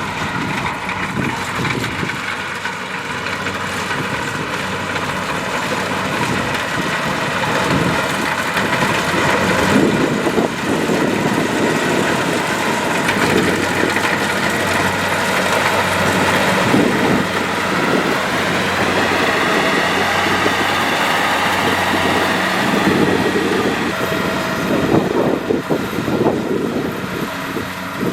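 Kubota DC-70 Plus rice combine harvester working: a steady engine drone over a dense mechanical rush of noise. Its pitch lifts slightly about two-thirds of the way in.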